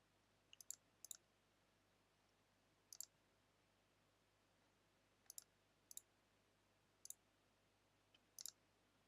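Faint, sparse clicks of a computer mouse or keyboard at a desk: about a dozen short, sharp clicks, many in quick pairs, with pauses of up to two seconds between them, over near-silent room tone.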